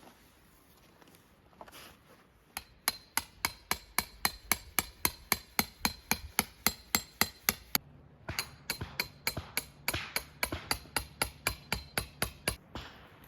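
A hammer driving tent pegs into the ground: two runs of quick, even strikes at about three a second, each a sharp ringing knock, with a short pause between the runs.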